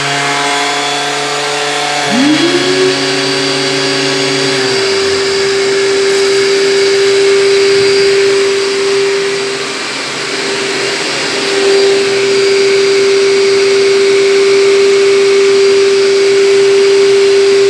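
Graphite 59G608 shop vacuum's motor starts about two seconds in with a rising whine, then runs as one steady whine. It is switched on through its power-tool socket: a plugged-in power tool runs alongside it until about five seconds in, and the vacuum keeps running after the tool stops, its delayed shut-off.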